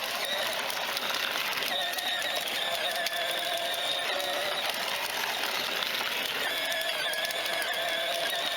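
Battery-powered electric motor of a child's ride-on toy motorbike towing a trailer, running with a steady whine that wavers slightly in pitch as it drives along.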